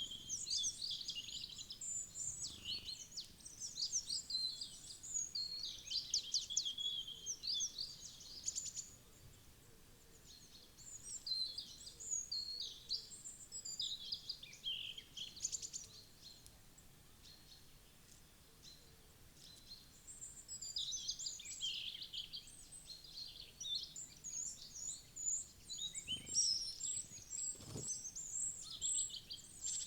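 Wild forest songbirds chirping and singing in quick high trills and calls, in bouts with a quieter lull about halfway through. Two soft knocks come near the end.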